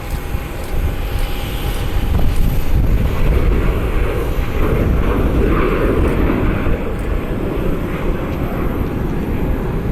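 Jet engines of a Southwest Boeing 737 at takeoff thrust, a steady rumble that swells about two seconds in, is loudest around the middle and eases a little near the end.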